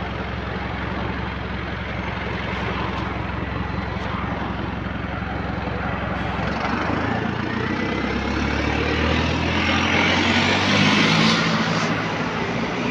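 Bus engine running steadily, then rising in pitch and loudness as the bus pulls away, with a thin whine climbing over it; the bus has a small exhaust leak.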